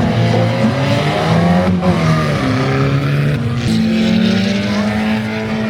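Monster truck engines running loud and revving, their pitch rising and falling, with one sharp rev about two seconds in.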